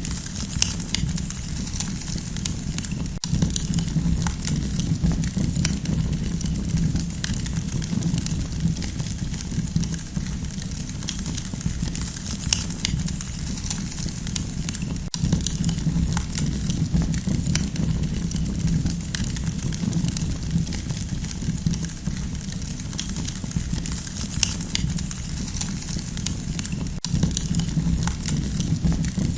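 Campfire crackling: frequent short pops and snaps, scattered irregularly, over a steady low rumble of the burning fire.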